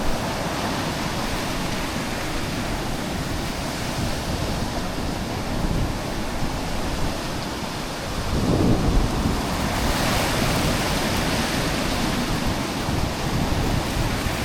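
Sea surf washing and breaking on the shore, with wind buffeting the microphone; a louder surge about eight seconds in.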